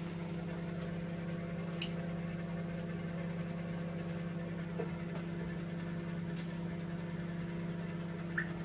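A steady low appliance hum, with a few faint, scattered ticks of water drops from a leaking ceiling falling into buckets of water.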